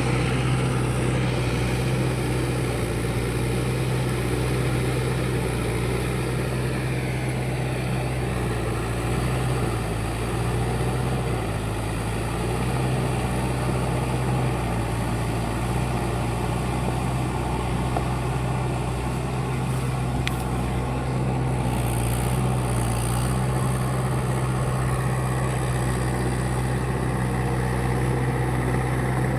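Mahindra 585 tractor's diesel engine running steadily under way, its note sagging slightly a couple of times.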